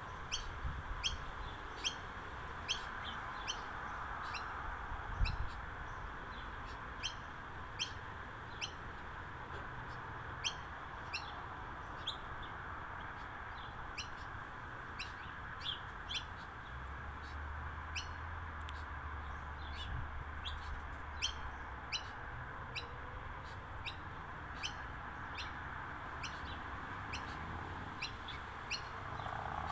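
Backyard birds chirping: short, sharp chirps repeating one or two times a second over a steady background hiss, with a low rumble for a few seconds in the middle.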